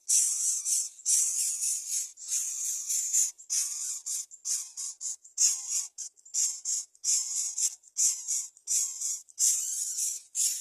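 Greater coucal nestlings hissing: a long, uneven series of short, hoarse hisses, about one and a half a second.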